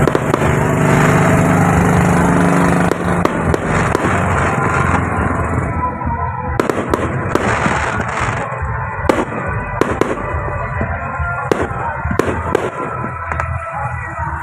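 Aerial fireworks going off in a rapid, irregular series of sharp bangs and crackles, thickest from about three seconds in.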